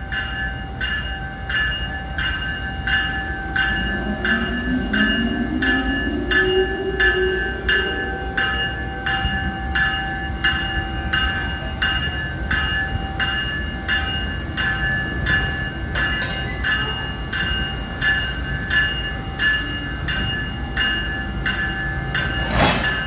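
Locomotive bell ringing steadily, about one and a half strokes a second, over the low rumble of an idling train. A rising whine climbs from about four to eight seconds in, and a single sharp knock comes near the end.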